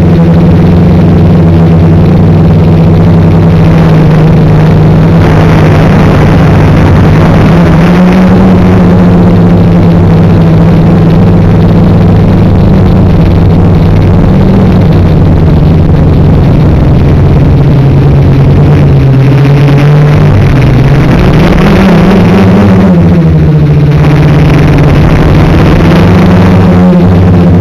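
Quadcopter's Turnigy 2213N brushless motors and propellers whining at full flight, picked up by the onboard camera. The pitch rises and falls with throttle changes, with a clear dip and climb a little after two-thirds of the way through.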